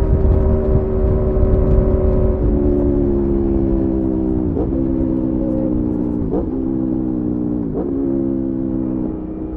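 Aprilia Tuono V4's V4 engine running at steady road speed. Its pitch steps down once, then dips briefly and recovers three times as the throttle is rolled or gears change, over low wind rumble.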